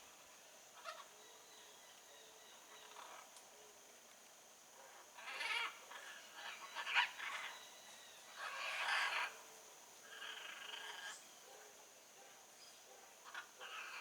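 Blue-and-yellow macaws squawking: a series of loud calls starting about five seconds in, after a quiet stretch, over a steady high-pitched hum.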